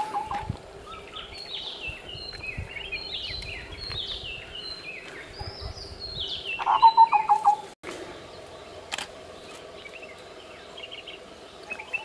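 Wild birds calling: a run of short, descending whistled and chirped notes, then a loud burst of rapid, low stuttering notes about seven seconds in. The sound breaks off abruptly just before eight seconds, leaving only faint chirps over a low steady hum.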